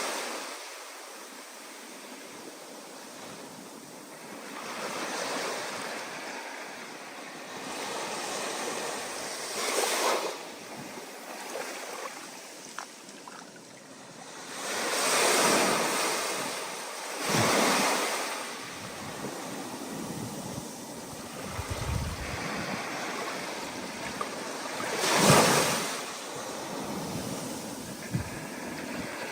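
Ocean waves breaking and washing in, with wind over the microphone. Each surge of surf builds and fades over a second or two, several times, and the loudest comes a little before the end.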